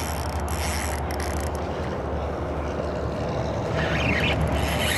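Fishing reel being cranked as a hooked snook is reeled in, over a steady low rumble.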